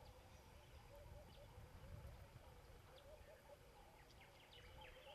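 Near silence, with faint birds calling repeatedly in short chirps, a little busier in the second half.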